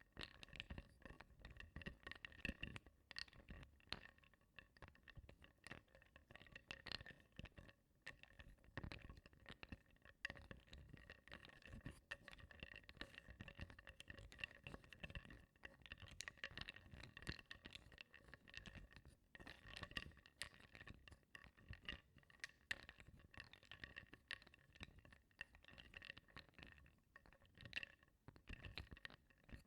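Wooden blocks stirred in water in a bowl: a soft, continuous stream of small knocks and clinks, with a faint steady ringing underneath.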